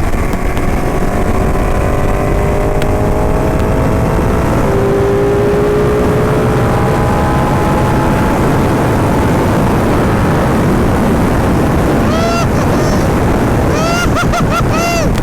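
Ducati motorcycle engine running on the move under steady wind rush, its pitch climbing slowly as it accelerates. Near the end come several short revs, each rising and dropping quickly.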